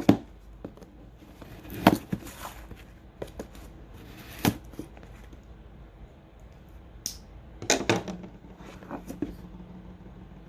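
Handling noise from opening the earbuds' retail box: scattered sharp clicks and knocks of cardboard and packaging being moved, with a short cluster of them near the end.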